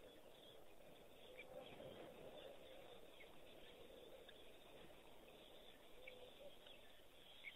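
Near silence: faint outdoor ambience with scattered short, high bird chirps over a low steady hiss, one chirp a little louder near the end.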